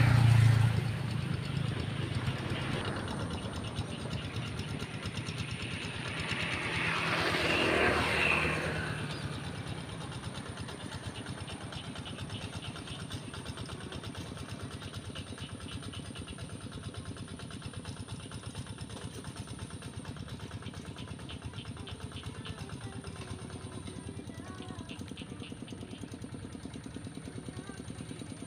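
Tractor engine running steadily while plowing a flooded rice paddy, growing louder to a peak about eight seconds in as it comes close, then settling to a steady, quieter run.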